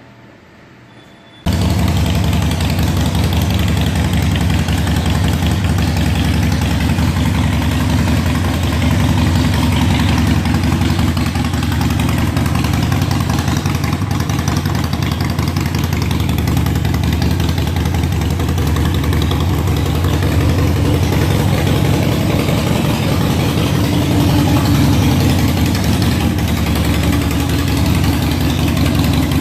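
2014 Harley-Davidson Sportster Forty-Eight's air-cooled 1200 cc V-twin running at a steady idle through its Vance & Hines exhaust. The engine sound comes in suddenly about a second and a half in.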